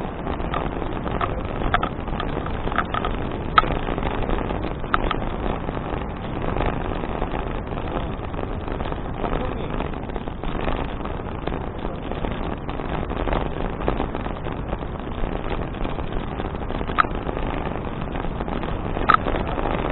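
Steady wind and rolling noise on a bicycle ride, picked up by a bike-mounted action camera, with a few short sharp clicks and rattles scattered through it.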